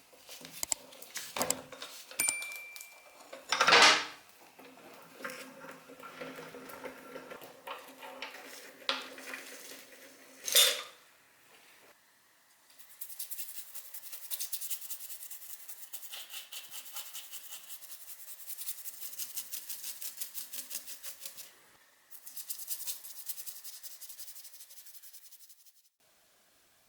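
Metal parts and tools clinking and knocking on a workbench, with two louder knocks. Then comes a long run of rapid, even rubbing or scraping strokes, in two stretches with a short pause between them.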